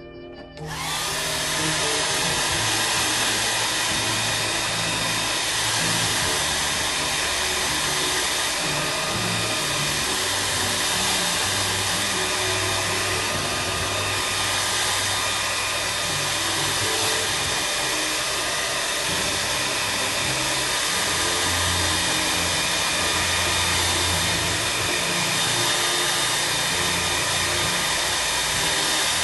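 A steady electric whir from a motor-driven shop tool, switched on about half a second in and running at an even level throughout, with background music underneath.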